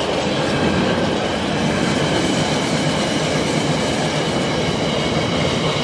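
Freight train of container flat wagons passing close by: a steady, loud rumble of wheels on rail, with a steady high-pitched whine over it.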